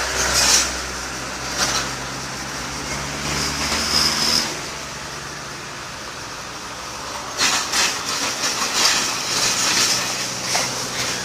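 Backhoe's engine running with a steady low hum that fades about four and a half seconds in. From about seven and a half seconds in comes a run of irregular clanks and clatter: the machine's metal wheels grinding on the concrete road.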